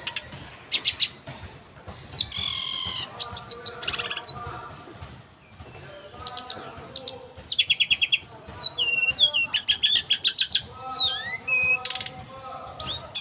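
Tledekan gunung songbird singing a varied song of high whistled phrases, downward-sliding notes and rapid trills, with short pauses between phrases.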